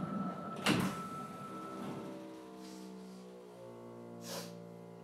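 Sapporo Municipal Subway 5000 series train starting off from a station: a sharp thud about 0.7 s in, then the traction motors' inverter tones, a stack of steady tones that sets in about a second and a half in as the train accelerates, with a short hiss about four seconds in.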